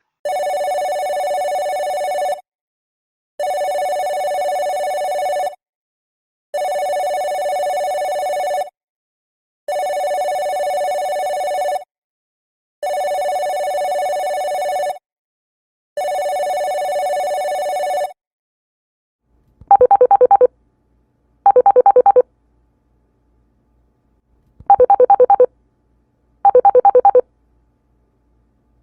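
Two electronic telephone ringtones in turn. First a steady two-note ring, six bursts of about two seconds each with short gaps. Then, about 19 seconds in, a different warbling ring in short bursts grouped in pairs, ring-ring then a pause.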